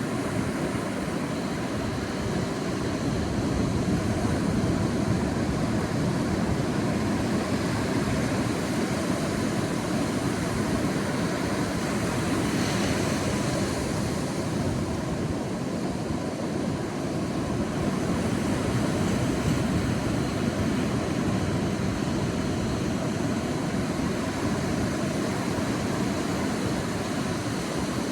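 Sea waves washing on a beach in a steady, deep rumbling wash that swells and eases slowly.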